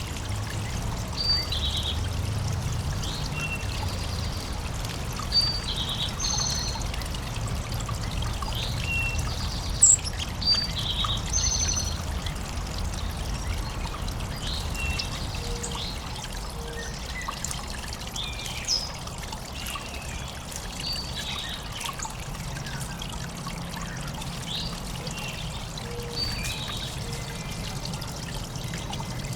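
Running water trickling and pouring steadily into a backyard bird bath, with songbirds giving short, high calls again and again over it.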